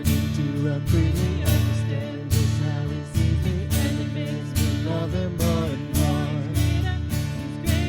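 Worship band music led by a strummed acoustic guitar, with strokes at a steady beat under a wavering melody line.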